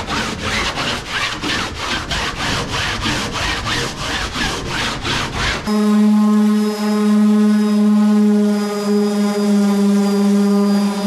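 Rhythmic back-and-forth strokes of abrasive on wood, about three a second, like hand sanding. About five and a half seconds in they cut off and are replaced by a loud steady machine hum.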